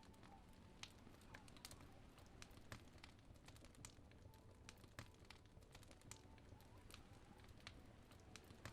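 Fireplace crackling softly, with irregular sharp pops and snaps over a faint low rumble.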